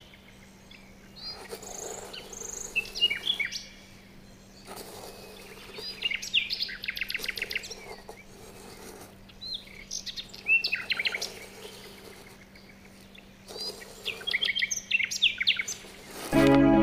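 Small birds chirping and trilling in four short bursts, each starting and stopping abruptly, over a faint steady hum. Music begins just before the end.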